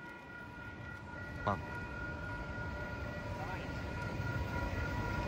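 Approaching Metrolink commuter train: a low rumble that grows steadily louder, with several steady high ringing tones held over it.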